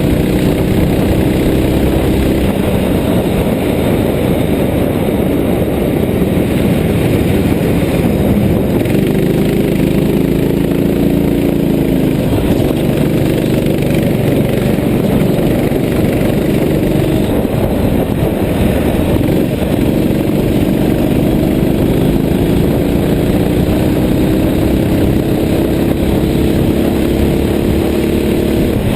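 Racing kart engine running hard. Its pitch climbs steadily for several seconds as it accelerates, drops back, and climbs again, repeating over the lap.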